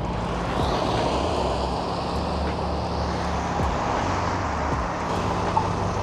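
City street traffic in a snowstorm: a steady engine hum with the hiss of a vehicle passing over the snowy road, swelling in the first couple of seconds.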